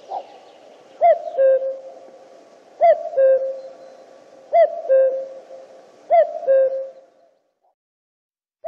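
Common cuckoo calling its two-note 'cu-coo', a higher note dropping to a lower one, four times about a second and a half apart.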